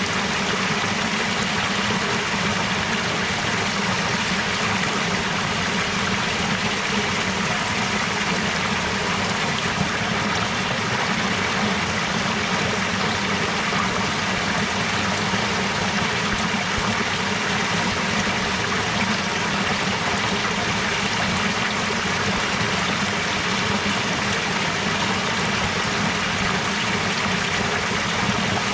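Running water of a stream flowing steadily: an even, unbroken rush.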